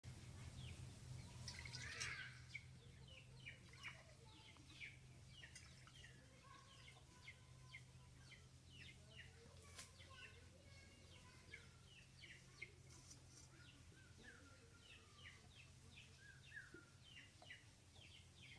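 Faint birdsong: many short, quick chirps from small birds, each dropping in pitch, over a low steady hum.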